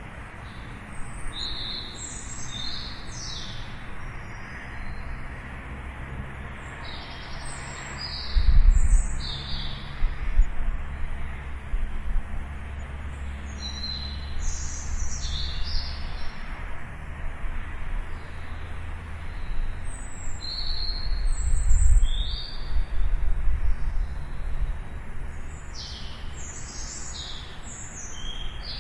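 Small birds chirping in clusters of short, high notes, over a steady low rumble that swells twice, about a third of the way in and again about three quarters of the way through.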